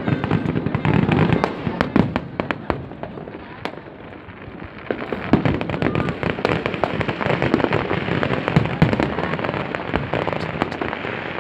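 Aerial fireworks display going off, many bangs and crackles in quick succession, easing for a moment about four seconds in and then building again, with voices of onlookers underneath.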